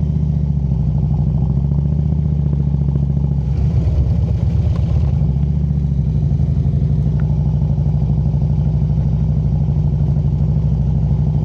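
Harley-Davidson motorcycle engine running at an even, low riding speed, with a brief swell about four seconds in.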